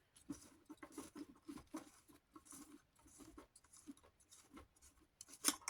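Small clicks and scrapes of a weathered nut being worked off a desk fan's motor shaft, a few irregular ticks a second, with a louder clack near the end.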